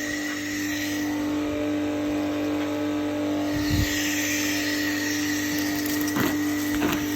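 Nilfisk electric pressure washer's motor running with a steady hum, with a few short knocks about four, six and seven seconds in. The motor runs normally; the owner suspects a pressure fault in the pump.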